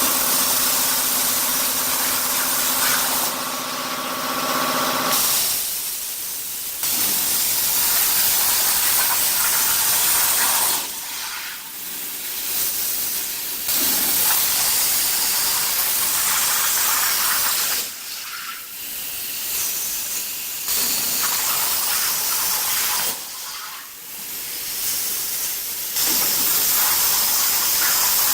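CNC plasma cutter torch cutting sheet metal: a loud steady hiss of the plasma arc, with a pitched hum under it for the first few seconds. The hiss drops off briefly four times and then returns.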